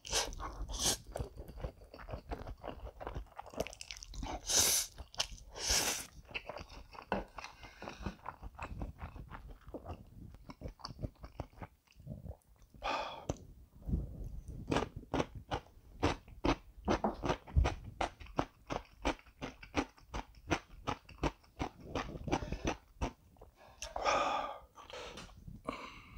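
Close-miked eating: a mouthful of cream carbonara buldak instant noodles slurped and chewed, with wet chewing clicks and crunchy bites. A few loud slurps stand out, one near the end.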